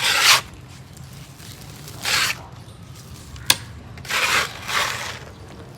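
Gritty cement crumbling and scraping in four short rushes, with one sharp click between them.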